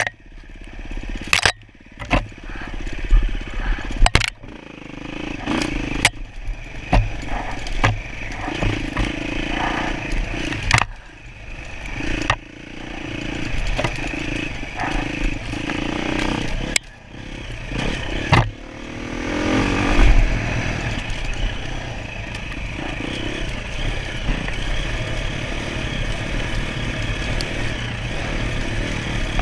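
Dirt bike engine being ridden hard off-road, the throttle opening and closing so the engine note keeps dropping and picking up again, with sharp knocks and clatter from the rough ground. About two-thirds of the way in it revs up, then runs more steadily.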